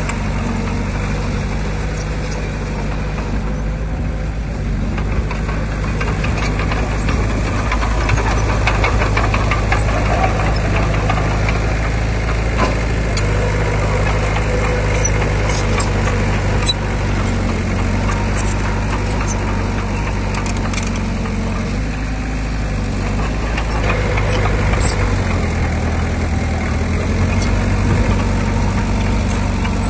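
Heavy earthmoving machinery's diesel engine running steadily, its pitch and load shifting a little, with scattered sharp clanks and clicks.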